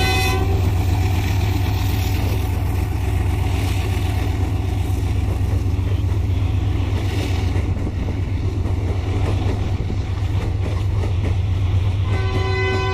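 A train horn sounds and cuts off about half a second in. After it comes a low steady rumble of heavy loaded iron ore wagons rolling past on a climbing grade. The horn sounds again about a second before the end.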